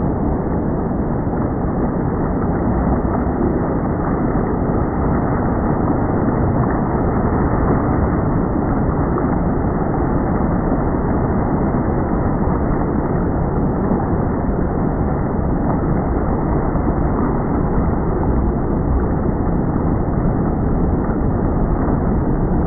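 Steady low rushing drone of a boat under way on open water, motor and water noise blended with no distinct engine note and no breaks.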